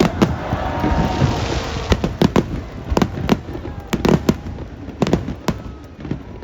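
Fireworks going off: a loud bang at the start, then a dozen or so sharp bangs in irregular clusters over the next several seconds.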